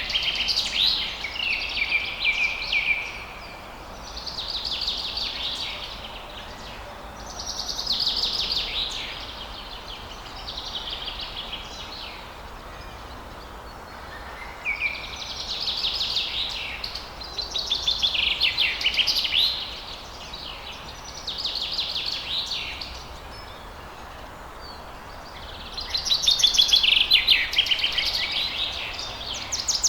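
Songbirds singing in short phrases of rapid trilled notes, a phrase every couple of seconds with short pauses between, over a steady background hiss.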